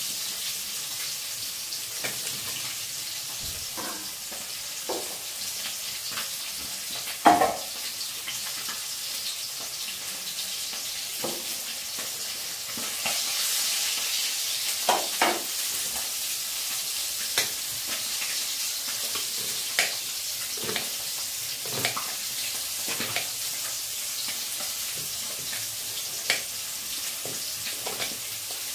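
Oil sizzling steadily in a steel kadai over a gas flame, the sizzle swelling about halfway through as the pan is stirred with a wooden spatula. Short knocks and clinks of utensils come every few seconds, the loudest about seven seconds in.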